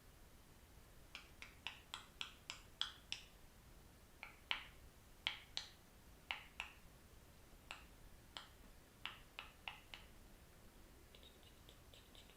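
A quiet run of about twenty sharp, separate clicks at an uneven pace, in small clusters, stopping about ten seconds in; near the end a faint, rapid chittering begins.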